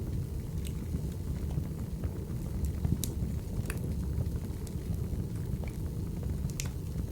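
Firewood burning: a steady low rumble with scattered sharp crackles and pops, the strongest about three seconds in.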